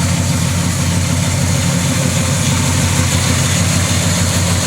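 Big-block 396 V8 of a 1966 Chevrolet Chevelle SS idling steadily, running smoothly.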